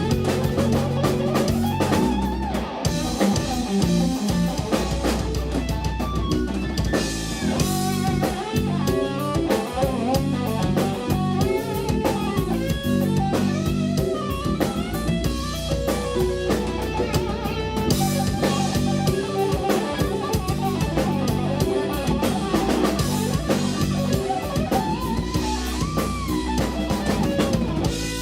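A rock band playing live: electric guitar over bass and drum kit, with busy guitar lines.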